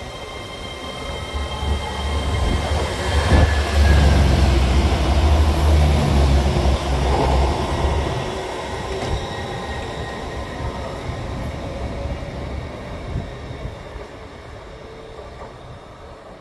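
GWR Class 800 (Hitachi IET) train pulling away from the station under power: a low rumble with wheel and rail noise that builds to its loudest about four to eight seconds in, then fades as the train draws off.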